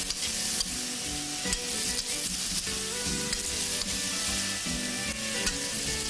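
Fried shrimp and nuts sizzling in sauce in a wok while a metal ladle stirs them, scraping and clicking now and then against the pan.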